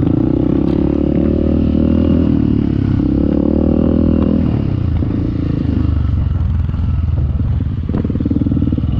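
Off-road motorcycle engine under throttle: two strong pulls in the first half with a brief let-off between them, then the engine eases off and runs lower.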